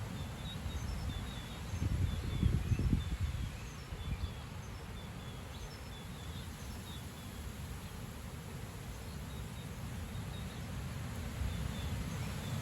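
Gusty wind rumbling against the microphone, swelling in stronger gusts about two seconds in and again near the end, with faint high chirps of small birds.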